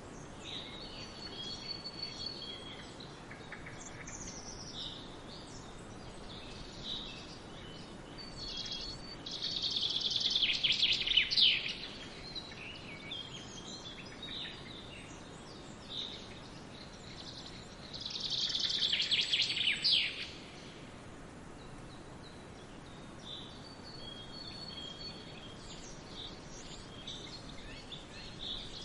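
Several songbirds chirping and singing, with two louder, fast trilling songs lasting a couple of seconds each, about ten and nineteen seconds in. Underneath is a faint, steady background hiss.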